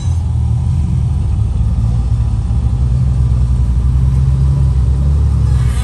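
Motor vehicle running, a steady deep rumble with no change in pitch.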